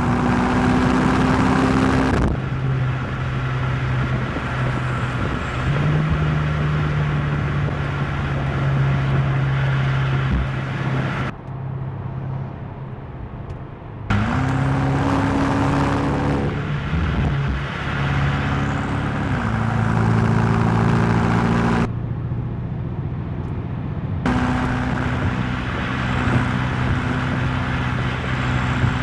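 BMW M8 Competition's twin-turbo V8 running under way, its note mostly steady, with a rise in revs about 14 s in and a fall a few seconds later, over a steady rush of tyre and road noise. The tone changes abruptly several times, with a quieter stretch about 11 to 14 s in.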